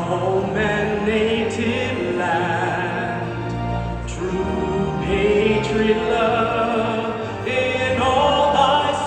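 A singer holding long notes with wide vibrato in an operatic style, amplified through an arena's sound system.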